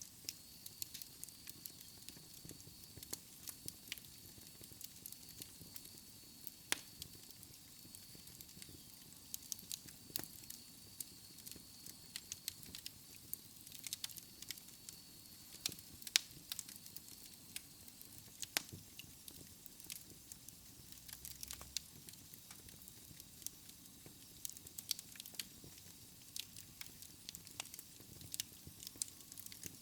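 Wood fire in a fireplace crackling, with irregular sharp pops and snaps of the burning logs over a soft hiss of the flames.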